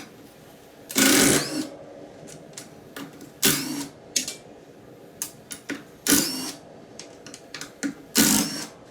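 Tool working the nuts on a drum mower: four short, loud bursts of rapid rattling, each about half a second and roughly two and a half seconds apart, with light metal clicks in between.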